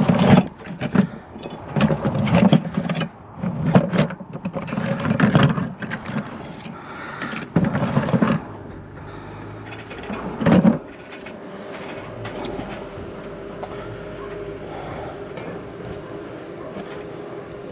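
Beekeeper's smoker bellows squeezed in a series of short puffs, about every one to two seconds, to revive its smoke, stopping about eleven seconds in. A steady hum remains after that.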